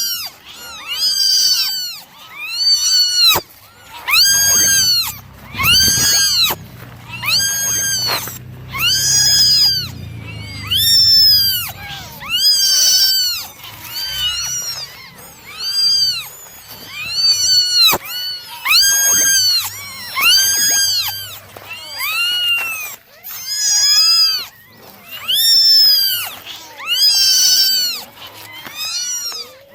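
Kittens meowing over and over: high, rising-and-falling calls, about one a second, some overlapping as several kittens call at once.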